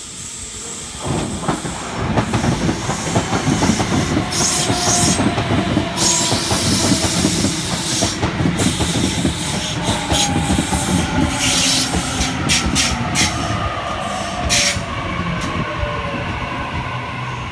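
Sydney Trains Waratah electric train arriving at the platform and slowing to a stop, wheels clattering over the rails. A faint whine falls in pitch through the second half as the train slows.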